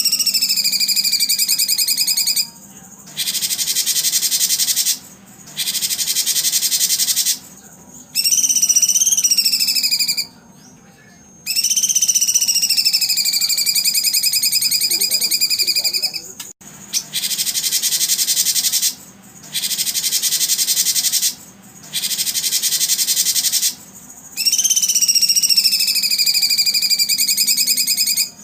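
Songbird singing in phrases of about two seconds with short pauses between. Clear whistled phrases that rise and then slide down alternate with runs of dense, buzzy trills.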